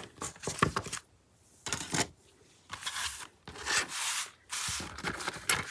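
Hand rubbing a freshly glued paper image flat onto a journal page: several brushing strokes of paper on paper with short pauses between them, pressing the piece down so it sticks.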